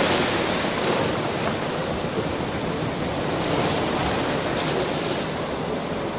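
Ocean surf: the wash of a broken wave, a steady rushing noise that slowly eases off over the few seconds.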